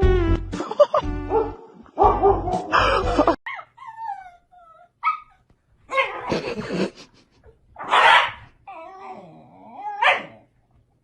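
Upbeat music with a beat for the first three seconds or so, then a dog vocalizing in a string of short cries that glide up and down in pitch, with a louder, harsher cry about eight seconds in.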